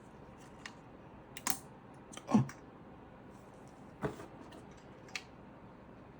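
Scattered clicks and light knocks of hands working on computer parts, about five in all, the loudest about two and a half seconds in.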